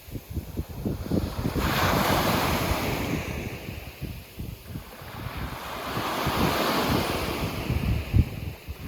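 Sea waves breaking and washing up on a beach, swelling twice: once about a second and a half in, and again in the second half. Wind buffets the microphone with a low rumble throughout.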